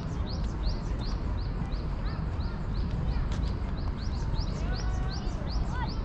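A bird chirping steadily, a short rising chirp about three times a second, over a low outdoor background rumble.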